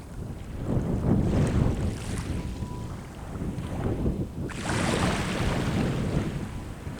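Sea waves at the shore, with wind rumbling on the microphone. The surf swells about a second in, and about four and a half seconds in a wave breaks and washes up with a sudden hiss that slowly fades.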